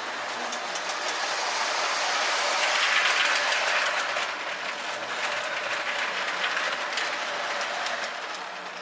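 K-Line O-gauge toy train, an S2 diesel switcher pulling freight cars, running on three-rail track: a steady rattle of wheels with clicks over the rail joints, loudest about three seconds in as it passes close, then fading a little.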